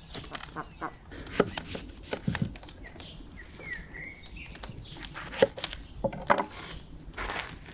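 Short bird chirps about three and a half to four seconds in, among scattered clicks and knocks.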